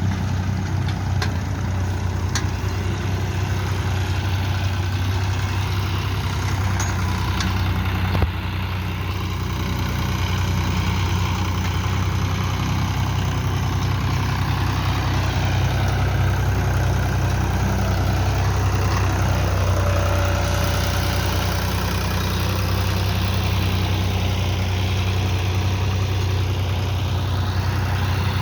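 John Deere tractor engine running steadily at a low, even speed, with a single short knock about eight seconds in.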